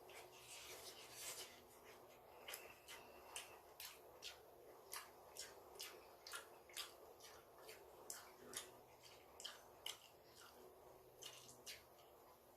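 Faint close-up eating sounds: a run of short mouth clicks from chewing, about two a second.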